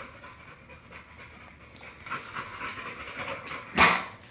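American Bully dog panting, faint and irregular. One short, louder sound cuts in near the end.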